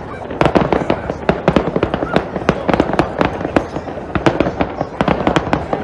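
Fireworks going off in rapid succession: a dense, continuous crackling and popping made of many sharp reports.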